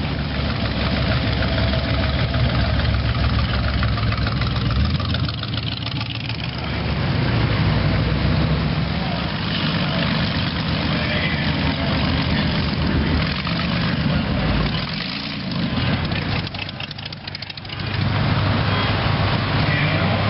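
Vehicle engine idling, a steady low rumble that eases briefly then picks up again near the end.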